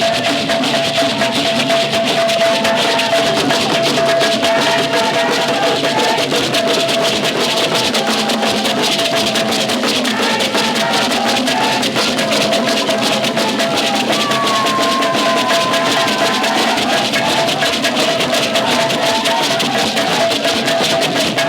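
Festival music with dense, rapid drumming and shaker rattles over a long steady held note.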